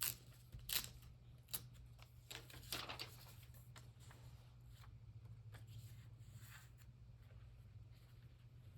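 Paper being handled: several short, crisp rustles in the first three seconds, then fainter rustling.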